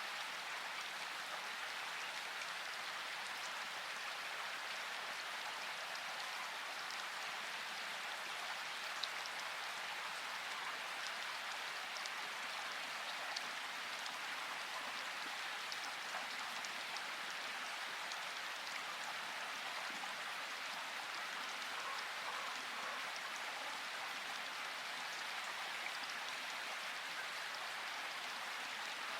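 Steady rain falling, an even hiss of rain on a surface with scattered individual drop ticks.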